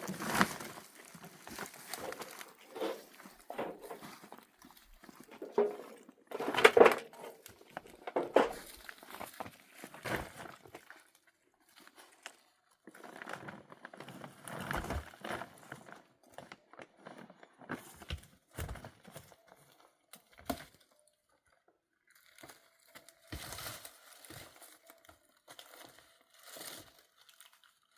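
Irregular rustling and crinkling with scattered sharp knocks, coming in short clusters separated by brief pauses.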